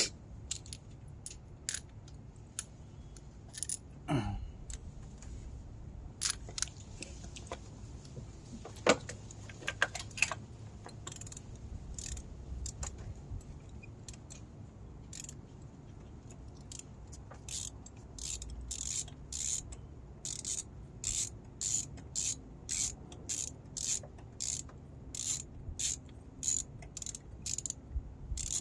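Spark-plug socket and extension clinking against the engine as a spark plug is fitted, with scattered metal clicks. From a little past the middle a ratchet wrench clicks in regular strokes, about one to two a second, as the plug is threaded down.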